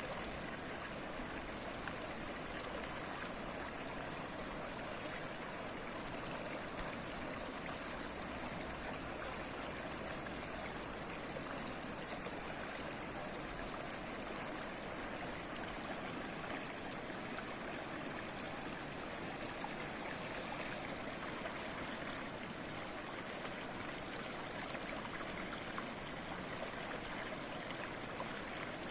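A stream of flowing water babbling steadily, an even rushing with no breaks or distinct events.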